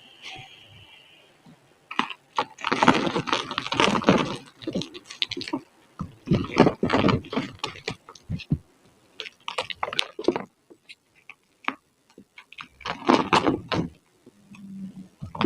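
Blocks of gym chalk being crushed, crumbling with crisp crunches. The crunching comes in several dense bursts a second or more long, with single crackles between them.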